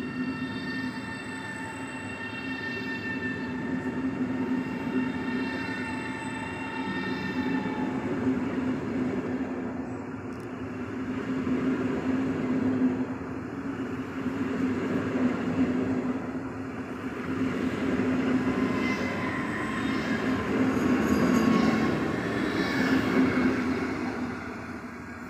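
ED250 Pendolino electric multiple unit pulling out of the station: a steady electric hum, with a whine from the traction equipment that fades after about eight seconds. High wheel squeal sets in near the end, where it is loudest.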